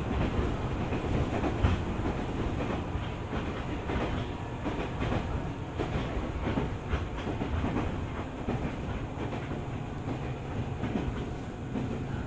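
205 series 600-subseries electric commuter train running along the line: a steady rumble of wheels on rail, with irregular clicks as the wheels pass over rail joints.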